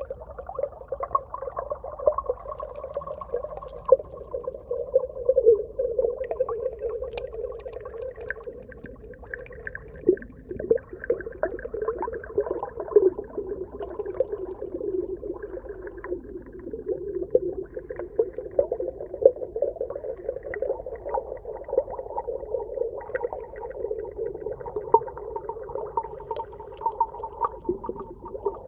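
Underwater ambience: a continuous mid-pitched murmur with many short clicks and pops scattered through it.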